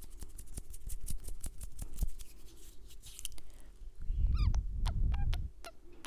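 Close-miked ASMR mouth sounds: many quick kissing smacks and wet mouth clicks, a few with a short squeaky falling pitch, and a breathy rush of air on the microphone about four seconds in.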